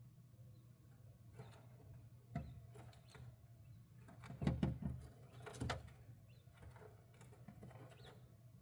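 A button quail moving about and tapping, with irregular sharp taps and scuffs; the loudest cluster comes about halfway through.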